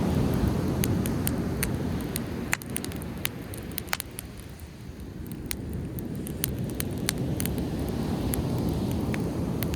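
Driftwood bonfire crackling with frequent sharp pops, over the rushing wash of sea waves that fades around the middle and swells again near the end.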